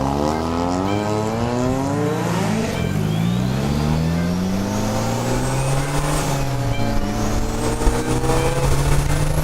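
Single-turbo Mazda FD RX-7 rotary engine revving hard under acceleration, its pitch climbing, dropping briefly about three seconds in at a gear change, then climbing again. A high whistle rises twice over the engine note as the turbo spools.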